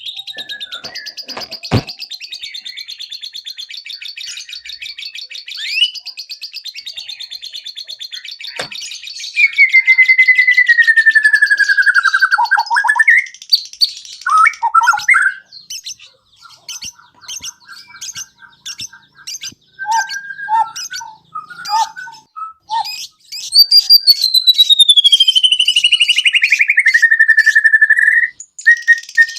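White-rumped shama (murai batu) song. It opens with a fast high trill, then gives a long falling whistle, a run of short varied notes, and a second long whistle that slides down from high to mid pitch near the end.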